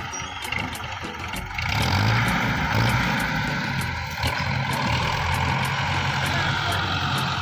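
Tractor engine running steadily over a broad hiss, getting louder about two seconds in.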